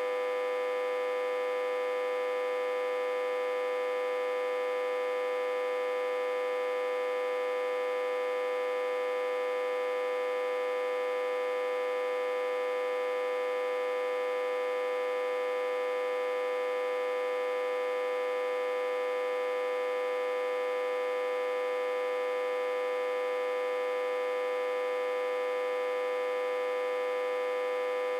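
Autotransformer humming with a steady tone and many overtones above it. It is reverse-connected to a step-down transformer and fed about 60 to 80 volts.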